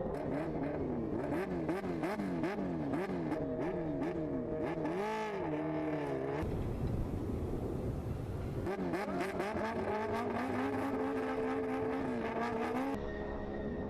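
A high-revving racing engine accelerating hard through the gears: its pitch climbs and drops back at each quick upshift, about two shifts a second. About six seconds in it switches abruptly to a rush of noise, then an engine pulls up through the revs again and holds a steady high note.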